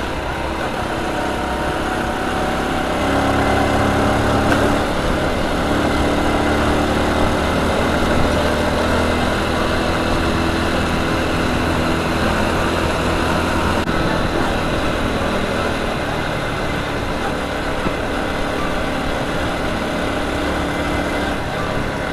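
Honda Super Cub motorcycle's single-cylinder four-stroke engine running steadily, its pitch shifting up and down a few times.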